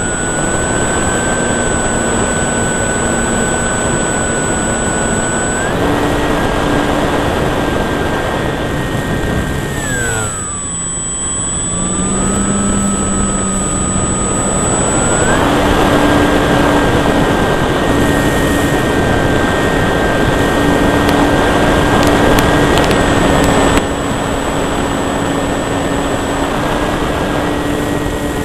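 Brushless electric motor and propeller of a Durafly Cessna 182 RC model plane, heard close up from the cowl: a steady high whine over heavy wind rush. About ten seconds in the whine drops in pitch as the throttle is eased back, then climbs back up about fifteen seconds in.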